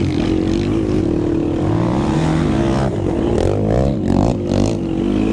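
Racing quad (ATV) engine running hard, its pitch rising and falling as the throttle is worked, over a steady engine drone.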